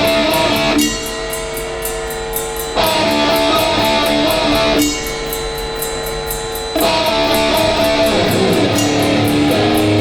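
Hardcore punk band playing live: distorted electric guitar riff over a steady drum beat, with no vocals. The riff alternates between fuller, louder two-second phrases and thinner, quieter ones.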